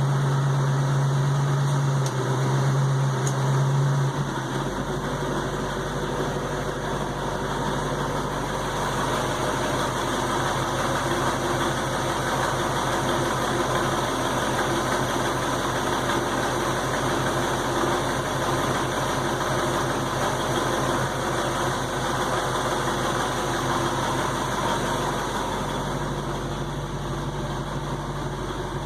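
Warmed-up 1968 Ford Mustang engine idling; about four seconds in it is put into gear and the note deepens. A rhythmic clunk, clunk, clunk then runs under the general hum of the engine, a noise that comes only once the engine is warm and whose cause the owner does not know.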